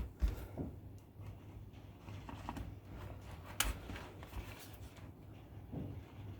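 Faint hand-work on a loudspeaker crossover circuit board: rustling and small scattered clicks as components are handled, with one sharper click about three and a half seconds in, over a steady low hum.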